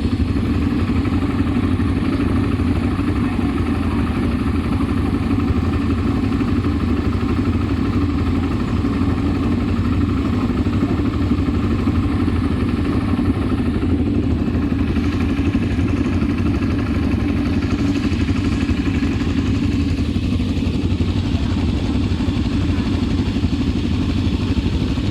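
ATV engine running at a steady, even pace while riding.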